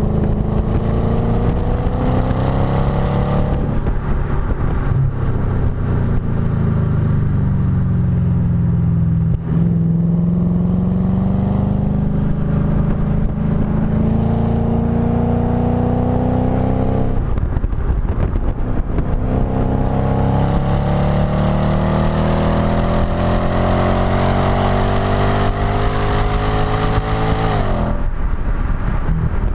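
Audi B7 S4's 4.2-litre V8 through a STaSIS aftermarket exhaust under hard acceleration on track. The revs climb steadily in three long pulls, each ending in a sudden drop, with a slower stretch of lower revs between the first two.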